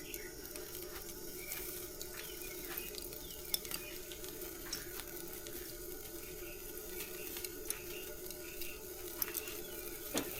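Charcoal fire crackling and popping in a Big Green Egg kamado grill, with small irregular snaps over a steady low hum.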